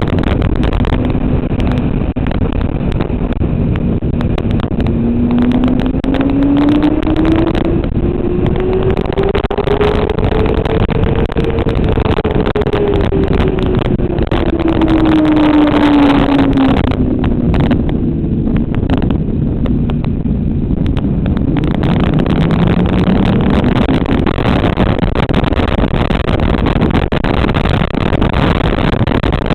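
Motorcycle engine at speed over a steady rushing noise. Its pitch climbs slowly for several seconds, then falls away, then dips and rises again near the end.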